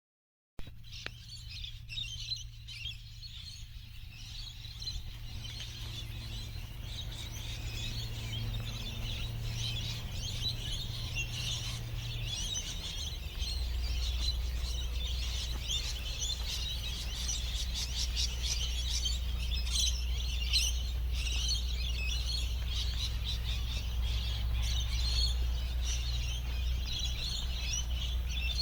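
Many small birds chirping continuously, with a steady low hum underneath that drops in pitch about thirteen seconds in.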